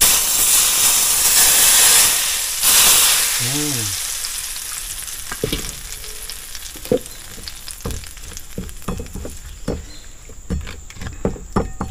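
Hot cooking oil poured over freshly ground sambal geprek chili paste, sizzling loudly with a second surge about two and a half seconds in, then dying away. After that come scattered sharp clicks and knocks.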